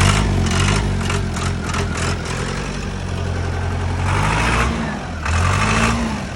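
An old telehandler's diesel engine running just after it has started. The engine note is steady, with a brief rise in revs about five seconds in.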